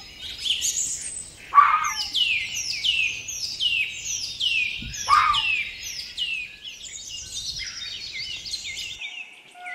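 Birdsong: a songbird repeats a short, high, down-slurred note about twice a second among other chirps, with two brief lower calls about one and a half and five seconds in.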